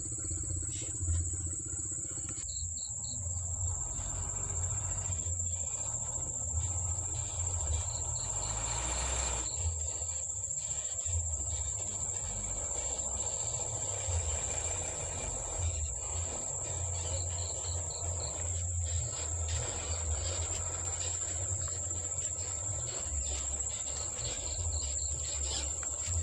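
Insects trilling in a steady high-pitched chorus, with short pulsed chirps now and then, over a low rumble that rises and falls.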